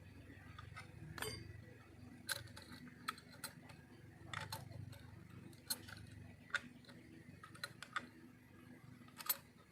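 Scattered light clicks and taps of a paint spray gun being fitted together by hand, irregular and about a dozen in all, over a faint low hum.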